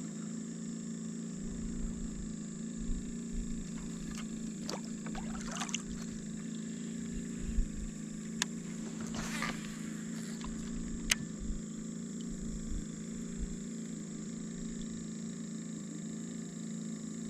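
Kayak paddling on open water: paddle splashes about five and nine seconds in, with a couple of sharp knocks, over a steady low hum.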